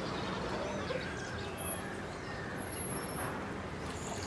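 Faint bird chirps over a steady distant traffic hum.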